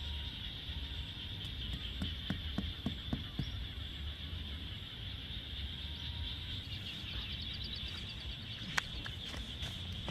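Steady high-pitched insect chorus with a low rumble under it, broken by a few soft knocks a couple of seconds in and a sharp click near the end.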